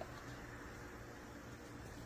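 Quiet room tone with a faint, steady low hum and no distinct events.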